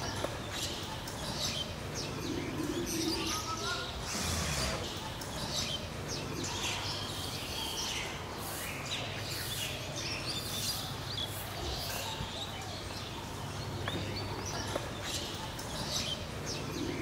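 Small birds chirping, with many short high calls and the odd rising run of notes coming and going, over a steady low hum.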